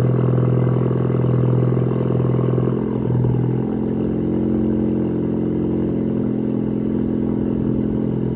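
Ford Focus ST's turbocharged engine idling steadily after a cold start. About three to four seconds in, the idle note shifts a little lower and quieter as the engine settles.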